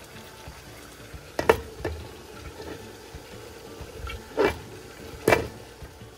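Metal-rimmed glass pot lid clinking against the rim of a nonstick wok, four sharp knocks with a short ring, the loudest about a second and a half in and near the end, over a faint sizzle of meat simmering in sauce.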